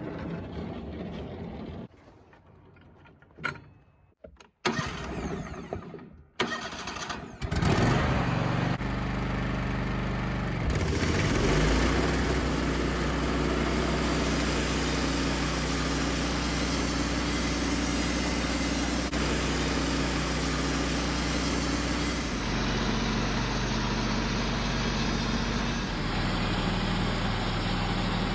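A few clicks and knocks, then the sawmill's Kohler 19 hp engine starts about seven seconds in and runs steadily, its speed shifting a few times.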